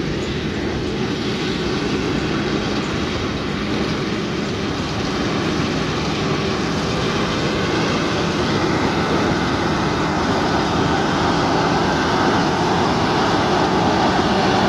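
Combine harvester engine and threshing machinery running steadily in the rice field, with a low engine hum under a wide mechanical din that grows slowly louder.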